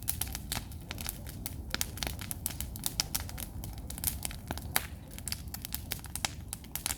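Wood campfire crackling: many sharp, irregular pops and snaps of burning firewood over a steady low background noise.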